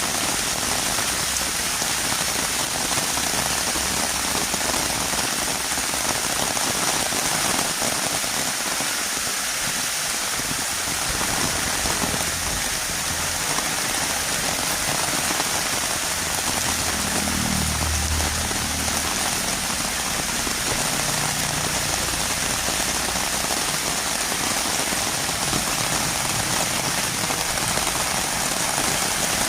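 Heavy rain falling steadily on a road, an even hiss with no pauses. A faint low rumble rises briefly in the middle.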